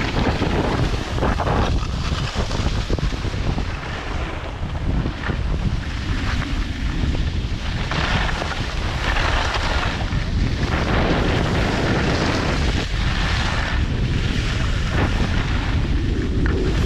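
Strong wind buffeting the microphone: a constant heavy low rumble with gusts of rushing hiss that swell and fade every few seconds.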